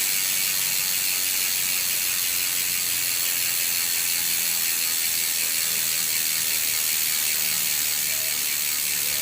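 Weapon Fever bicycle rear hub freewheeling: its pawls click so fast that they merge into a steady, high-pitched ratcheting buzz.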